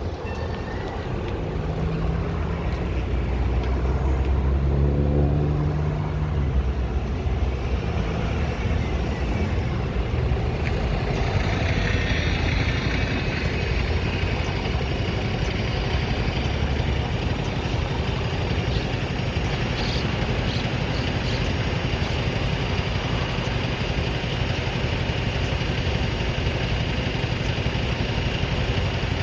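Road traffic: a large engine rumbles close by for the first several seconds, then a steady wash of passing cars.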